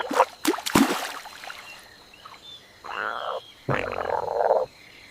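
Frog calls: two short buzzy trills, the second longer, a little past the middle.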